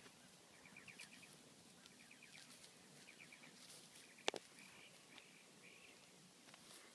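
Faint songbird chirping in short runs of quick notes, repeating about once a second. There is one sharp click a little over four seconds in.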